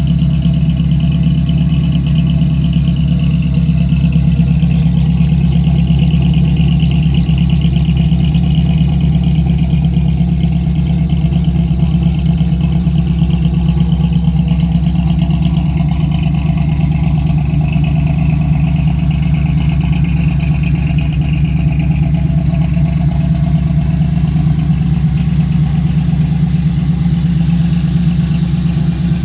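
1968 Chevrolet Camaro's engine idling steadily.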